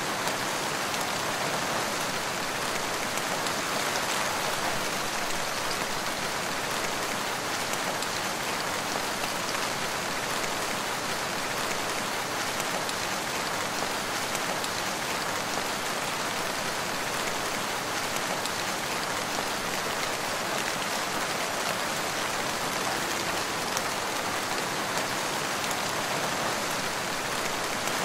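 Steady rain falling through a forest, an even hiss with scattered drops pattering on leaves.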